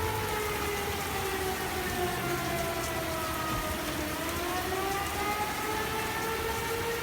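Outdoor tornado warning siren wailing, its pitch sinking slowly and then climbing back, over steady rain.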